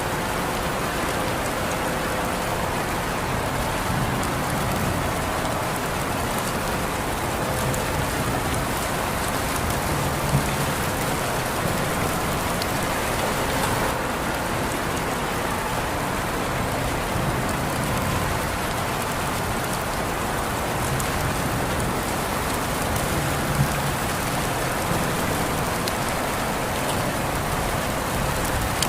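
Steady rain falling, an even hiss with a patter of drops, with two brief louder ticks standing out along the way.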